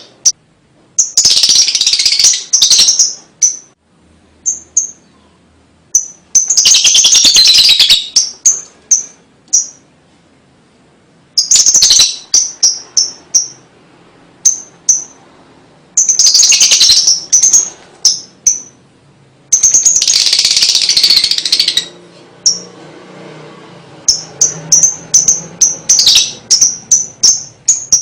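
Lovebird ngekek: long, fast chattering trills of one to two seconds each, repeated about five times, with runs of short high chirps between them.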